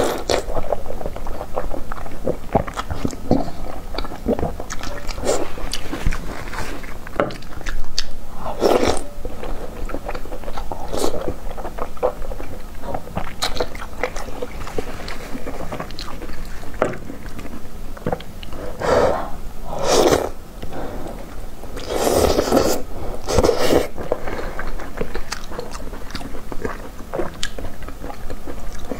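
Close-miked eating: biting and chewing soft, fatty pieces of spicy 鸡冠油 (frilly pork mesentery fat in chili oil), with wet, smacking mouth sounds throughout and a few louder moments around a third of the way in and again about two-thirds through.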